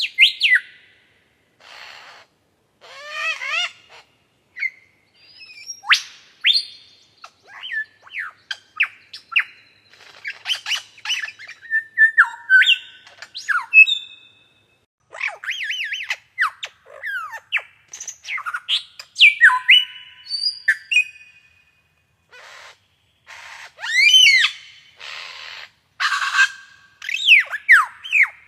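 Birds calling: a lively run of short whistled chirps and sweeping up-and-down notes, mixed with harsh squawks, in quick bursts separated by brief pauses.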